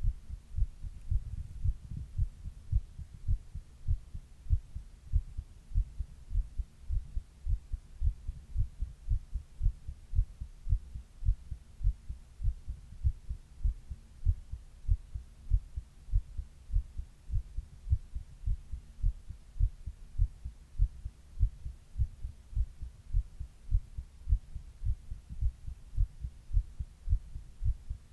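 Human heart sounds: a steady, regular heartbeat of low, dull thumps.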